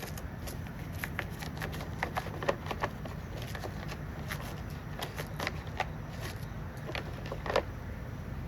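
Scrubbing and scraping on a STIHL 020T chainsaw part: irregular short scratches and clicks, a few a second, over a steady low hum.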